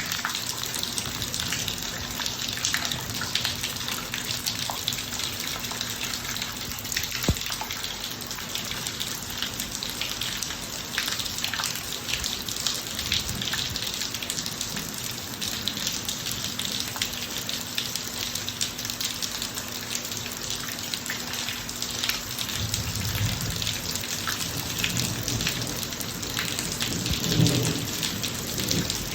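Steady rain falling on a driveway, with a dense patter of drops. A low rumble swells in the last few seconds.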